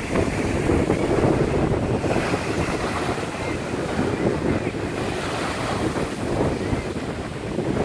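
Wind buffeting the microphone over lake waves washing onto a flooded beach, a steady rough rush that swells and eases.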